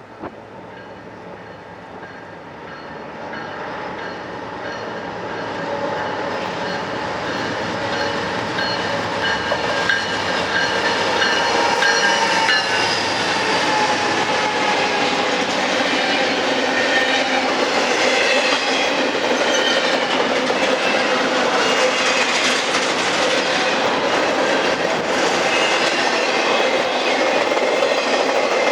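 Norfolk Southern intermodal freight train with GE C40-9W diesel locomotives approaching and rolling past. It grows steadily louder over the first dozen seconds, then holds at a loud, dense rumble with several steady high tones riding over it.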